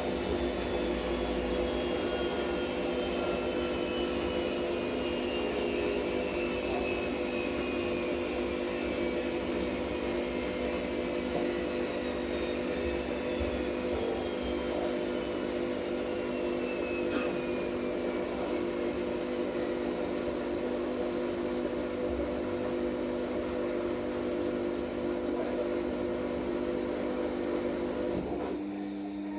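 Siemens washing machine in its fast spin cycle: a steady motor-and-drum hum with a thin whine slowly falling in pitch. Near the end the sound drops in loudness and the hum changes pitch as the spin speed changes.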